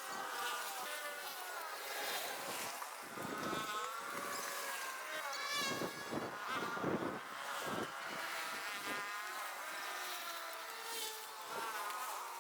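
Small petrol engine of a garden power tool running with a high buzzing whine, its pitch rising and falling as it is throttled up and down.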